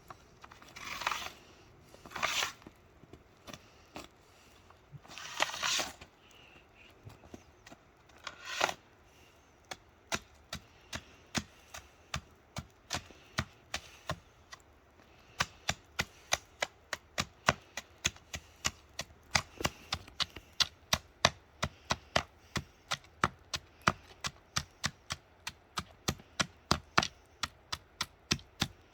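Ice chisel chopping ice out of a railway switch: a few longer scraping strokes first, then a steady run of sharp strikes about two a second that quicken a little past the middle.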